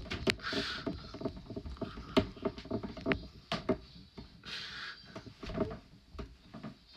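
A quick, irregular run of knocks and clatters, cartoon-style, with two short hissing whooshes, one about half a second in and one about four and a half seconds in.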